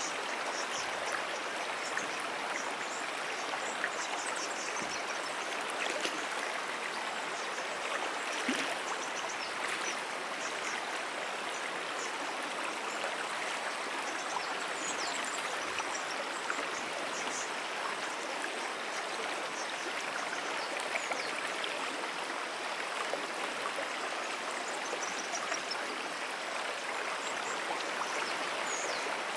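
Steady sound of Moonan Brook's water running over its bed, an even rushing hiss with no break. Faint short high chirps come and go above it.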